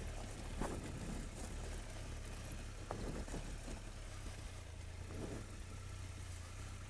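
Triumph Tiger 1200 motorcycle engine running steadily at low revs, a low even drone.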